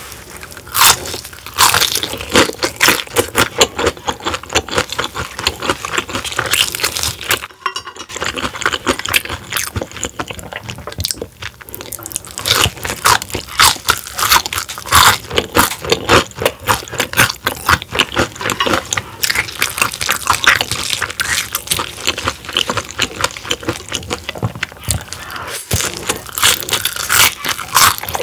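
Close-up crunching and chewing of battered, deep-fried soft-shell crab: dense, irregular crackles of the crisp batter and soft shell being bitten and chewed, with a short pause about seven seconds in.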